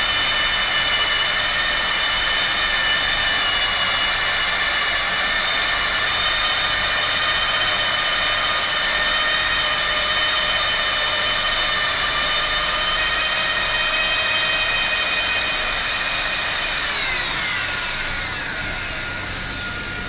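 Handheld plastic extrusion welding gun running, its drive motor whining steadily over the hiss of the hot-air blower. Near the end the motor winds down, falling in pitch, while the blower hiss carries on.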